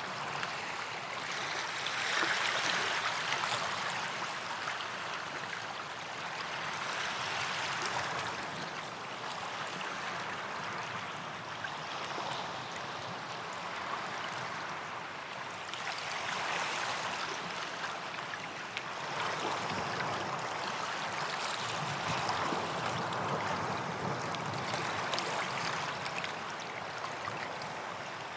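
Small waves lapping and washing on a sandy beach, swelling and easing every few seconds.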